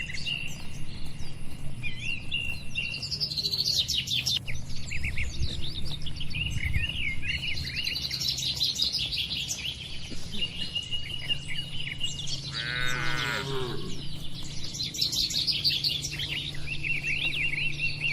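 Small birds chirping and twittering throughout, with one falling call from a livestock animal, about a second and a half long, about two-thirds of the way through. A steady low hum runs underneath.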